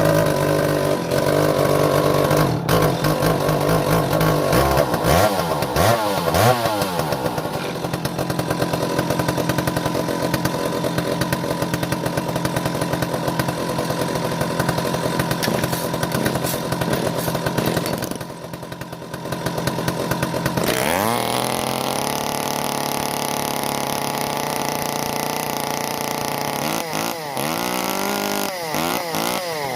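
Stihl two-stroke chainsaw running just after a cold start: the engine speed wavers unevenly at first, then about two-thirds of the way in the throttle is opened and it climbs to a steady high speed, with a few quick speed swings near the end.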